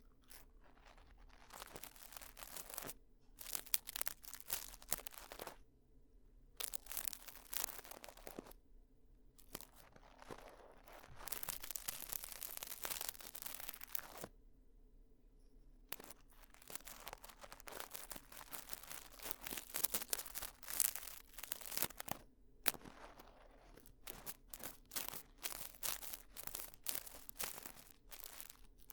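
Ear-cleaning sounds: a tool scratching and rubbing close against a microphone's ear in stretches of a few seconds, with short pauses between them.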